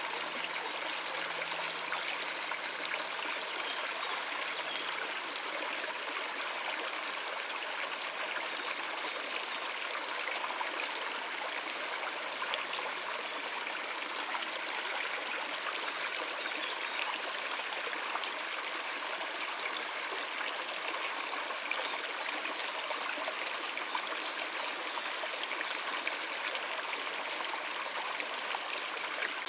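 Shallow river water running and trickling over rocks, a steady, even rush with no pauses.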